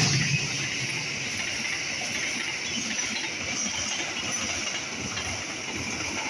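Passenger train coaches rolling past close by: a steady rush of wheels on rail that holds at an even level.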